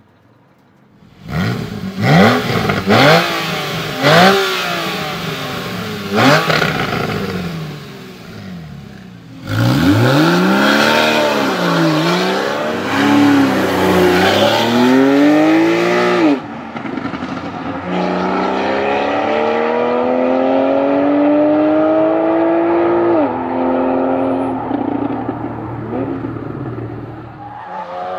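Porsche 991 Carrera 4S flat-six engine through its Porsche Sport Exhaust, being revved. It starts with several short, sharp blips, then comes a run of revs rising and falling in quick succession, then a long steady climb in revs for about five seconds that falls away in steps.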